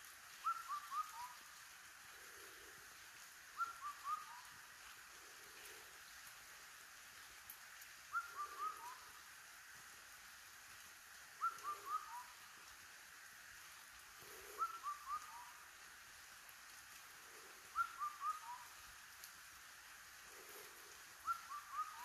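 Steady rain hiss with a bird repeating a short phrase of four whistled notes, the last one lowest, seven times about every three to four seconds, each phrase followed by a softer, lower note.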